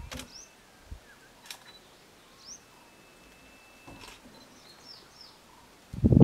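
Birds calling in the background: short rising chirps every second or so, a thin steady whistle held for a couple of seconds, and a few faint clicks. A sudden loud low rumble begins just before the end.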